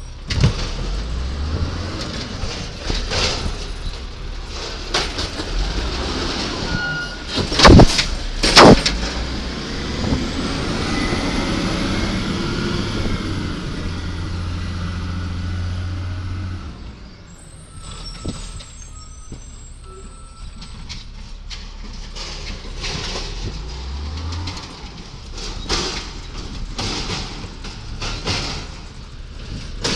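Garbage truck running at work: two very loud sharp bangs about eight seconds in, then the engine is held at a higher steady speed for several seconds before dropping back around seventeen seconds, with scattered knocks and clatter through the rest.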